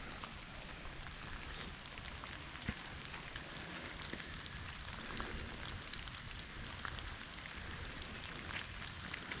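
Steady rain falling, with many small drops ticking and pattering.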